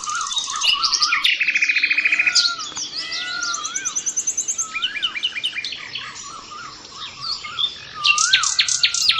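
Several birds singing and calling at once: a repeated rising-and-falling whistle, fast buzzy trills and quick runs of short chirps.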